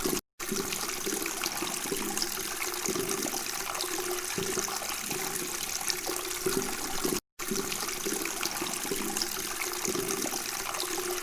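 Flowing water babbling and gurgling steadily, cutting to silence for a split second twice, just after the start and about seven seconds in.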